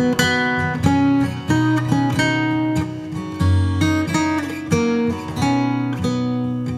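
Background music: acoustic guitar playing a plucked, strummed melody.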